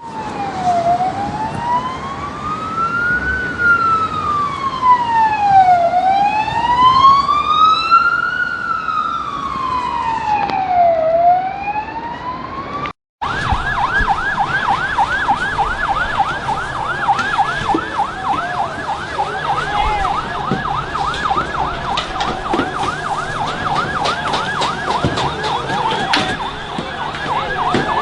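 Police car siren sounding a slow wail that rises and falls about every five seconds. After a brief cut about halfway through, it switches to a fast yelp of several rapid rises a second.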